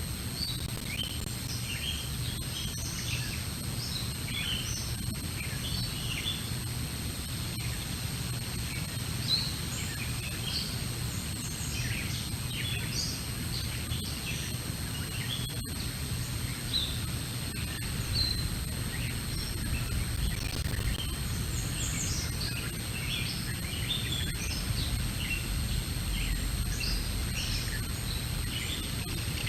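Many short, high chirps and calls from small birds, scattered throughout, over a steady low outdoor rumble.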